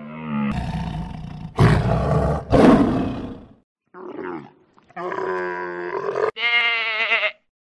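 Red deer stag roaring, a deep and rough call, then after a brief pause a dromedary camel's drawn-out bellows, three calls, the last one higher and wavering.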